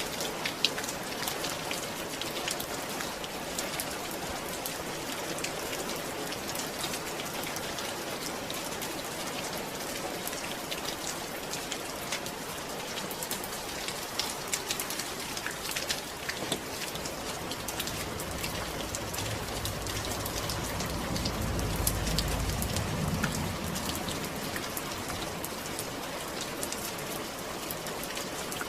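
Steady rainfall, with individual drops ticking sharply through an even hiss. A low rumble swells and fades about two-thirds of the way through.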